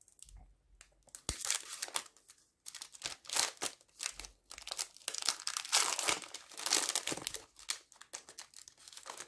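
Foil trading-card pack being torn open and crinkled by hand, in irregular rustling bursts that are loudest in the middle, with a few sharp crackles.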